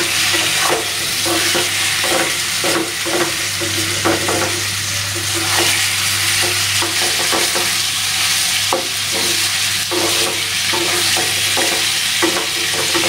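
Raw chicken pieces sizzling as they sauté in hot oil in a non-stick frying pan, stirred with a wooden spatula that scrapes and clacks against the pan many times at irregular intervals.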